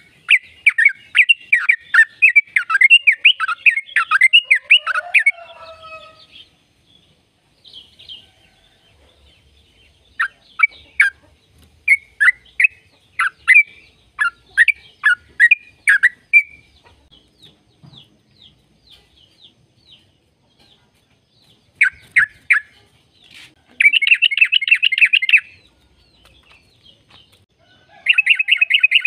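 Yellow-vented bulbul (trucukan) song: bursts of quick bubbly chattering notes with pauses of several seconds between them. Near the end come fast, even rattling trills, the 'ropel' prized by bird keepers.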